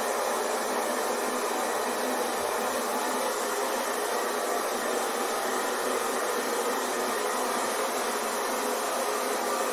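Hair dryer running steadily, a constant even whoosh of blown air with a motor hum, used as white noise to settle a baby.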